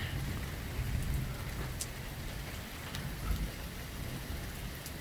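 Heavy thunderstorm rain falling steadily, an even hiss of rain on surfaces with a low, uneven rumble underneath.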